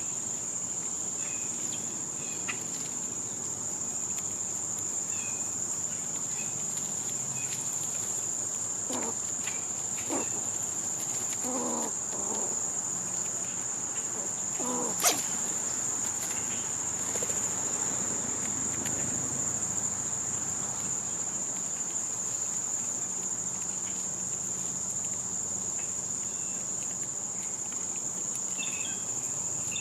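A steady, unbroken high-pitched drone from a summer insect chorus, with a few faint short chirps scattered through it and a single sharp click about halfway through.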